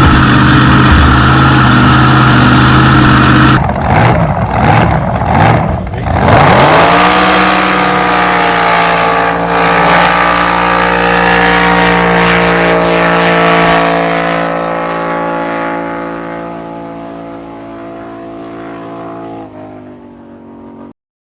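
Drag boat's supercharged, fuel-injected big-block Chevy V8 running loud and steady. About three and a half seconds in, the sound breaks up several times. Then the engine pitch climbs and holds high as the boat launches and runs down the course, slowly fading away before cutting off abruptly near the end.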